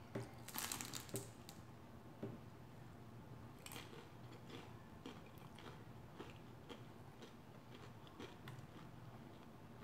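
A person biting into an egg roll with a burst of crunching about half a second in, then chewing with scattered small crunches.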